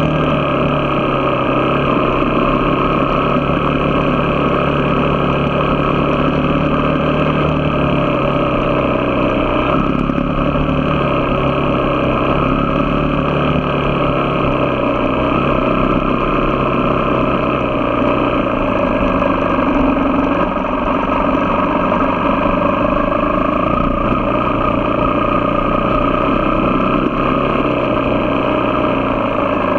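A motor vehicle driving steadily at a constant level: engine hum with road noise, the engine note shifting a little a few times.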